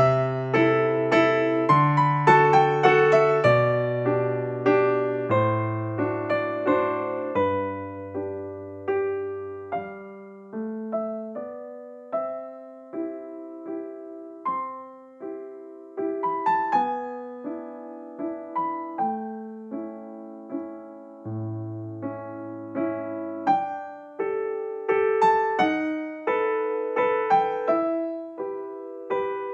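Background piano music: a gentle tune of struck notes over a bass line, fuller at the start and near the end.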